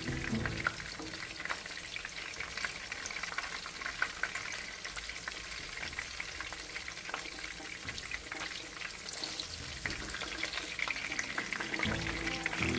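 Chapli kababs frying in shallow oil in a nonstick pan: a steady sizzle with many small crackles and pops from the bubbling oil. Background music comes in near the end.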